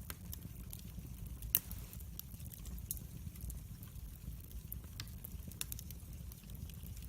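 Wood fire in a fireplace crackling: irregular sharp pops and snaps over a low steady rumble, with one louder crack about a second and a half in.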